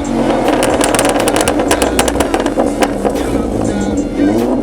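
2012 Ford Mustang's 3.7-litre V6 running through a custom exhaust. It runs at low revs with a crackly burble, then the revs rise just before the end.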